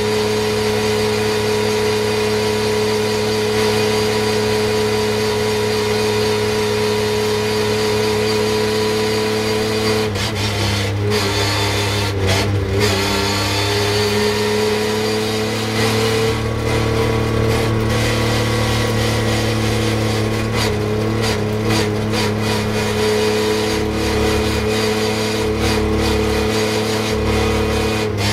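Porsche 911 GT3 Cup race car's flat-six engine heard from inside the cockpit, running steadily at low speed in first gear at around 4,000–4,500 rpm. Its pitch dips briefly about ten seconds in, then slowly climbs back.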